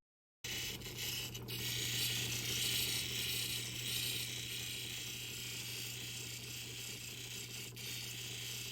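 Lapidary cabbing machine running with a steady motor hum and an even hiss as an opal is worked on a spinning diamond polishing wheel; it starts about half a second in after a moment of silence.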